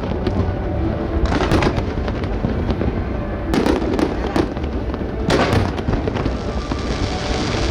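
Fireworks bursting in crackling volleys, about a second and a half in, around four seconds in and again a little after five seconds, over a continuous low rumble of the display.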